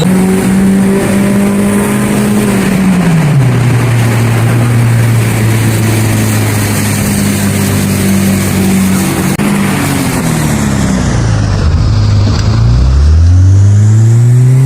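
Honda Civic engine running through an HKS aftermarket exhaust while driving. The note holds steady, drops in pitch about three seconds in, then sinks low and climbs again near the end as the revs fall and rise.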